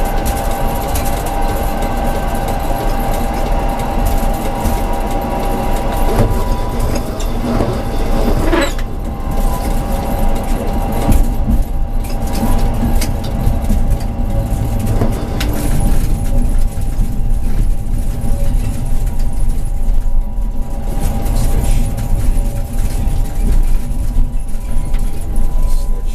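Tram in motion: a steady low rumble of wheels on rails under a constant whine, with scattered clicks over the track. A short squeal sweeps sharply up in pitch about nine seconds in.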